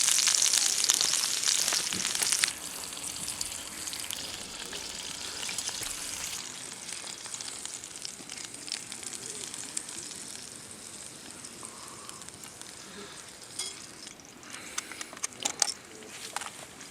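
Food sizzling in a hot pan, loud at first and then abruptly much quieter about two and a half seconds in, with scattered crackles and clicks near the end.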